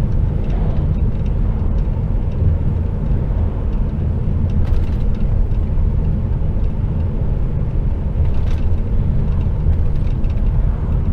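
Steady, low engine and road noise heard inside the cab of an HGV container lorry on the move.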